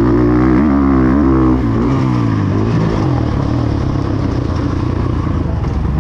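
Motocross dirt bike engine running hard, its pitch rising and falling quickly with the throttle for the first second or two, then holding steadier.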